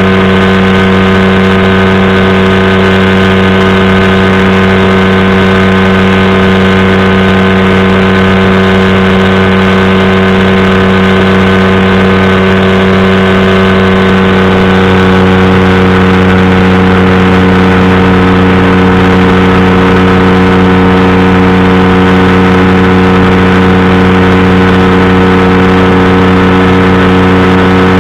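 Powered parachute's engine and propeller running steadily, loud and close. The tone shifts slightly about halfway through.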